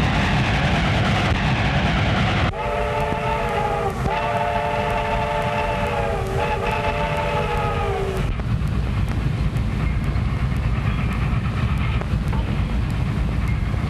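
Train whistle blowing three blasts, each a chord of several tones, over the steady rumble of a running train; the whistling stops about eight seconds in and the rumble goes on.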